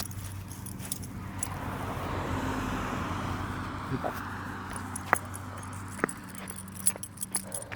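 A car passing by on the road, its noise swelling to a peak a couple of seconds in and then fading away, with light metallic jingling clinks throughout.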